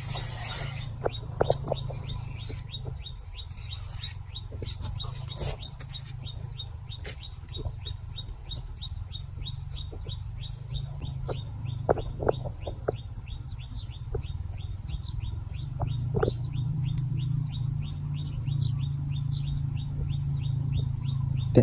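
A rapid, steady run of short, high chirps, about four a second, from a small bird. Under it runs a low, steady rumble and a few soft clicks.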